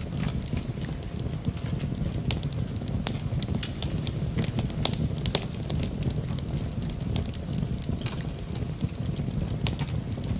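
Wood fire burning in a fireplace, crackling and popping steadily over a low rumble of flames, with frequent sharp snaps from the burning wood.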